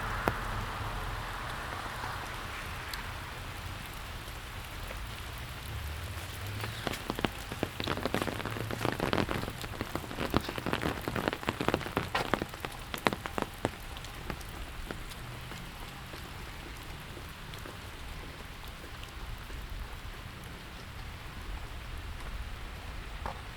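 Steady autumn rain falling around a residential street, a soft even patter. From about a third of the way in to just past halfway, many close, louder drops tap sharply on top of it.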